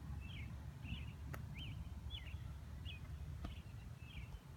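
A bird calling over and over in short, quick chirps, about two a second, above a low steady rumble of background noise. Two faint clicks stand out, one about a second in and one near the end.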